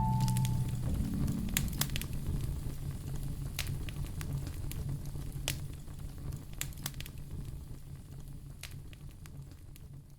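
Wood fire in a fireplace crackling, with scattered sharp pops over a low steady rumble. The whole sound fades out gradually toward the end.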